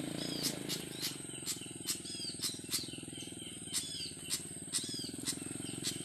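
Repeated short, high, descending bird chirps, roughly one a second, with sharp clicks about twice a second, over a steady low drone.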